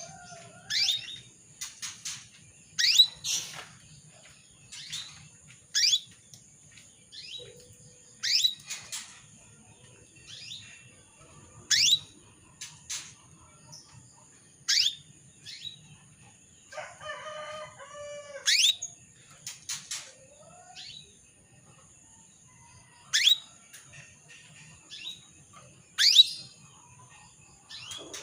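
Female canary calling with short sharp chirps, one every second or few, each a quick steep sweep in pitch; about halfway through comes a lower, fuller call of a little over a second. These are the calls of a female in breeding condition, calling a male.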